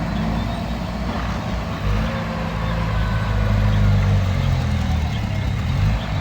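Heavy diesel engine of a dump truck or bulldozer running steadily at low revs, its note shifting about two seconds in and growing a little louder near four seconds.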